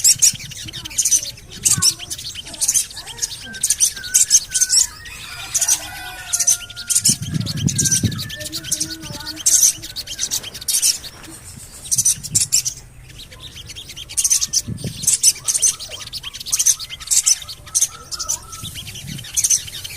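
Sogon bird calling a sharp, high 'cuit' over and over, about twice a second, with softer twittering notes underneath and a brief low rumble about seven seconds in. It is a lure call of the kind played to a caged sogon to provoke it into singing.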